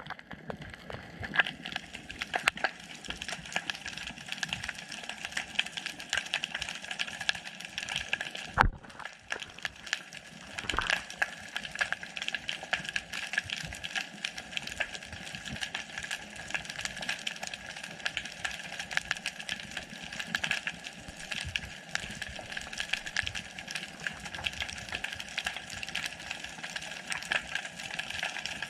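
Underwater ambience heard through a GoPro's waterproof housing: a dense, steady crackle of small clicks over a hiss, with one louder knock about a third of the way in.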